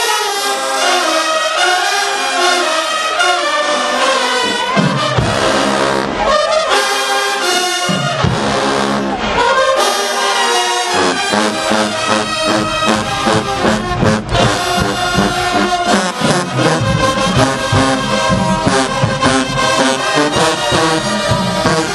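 Marching band playing loudly, led by a full brass section of trombones and trumpets; deeper low-end parts fill in about halfway through.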